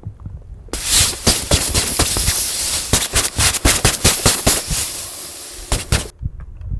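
Loud, dense crackling with a steady hiss, starting abruptly about a second in and cutting off suddenly near the end.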